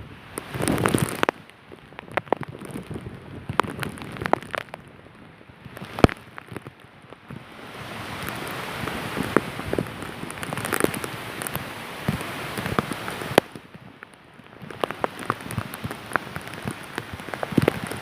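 Heavy cyclone rain with gusting wind, the drops hitting nearby surfaces as many sharp ticks. The rush swells and eases, louder from about eight seconds in, with one sharper knock about six seconds in.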